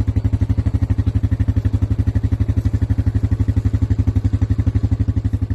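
Quad bike engine running at a steady idle, an even, rapid low throbbing.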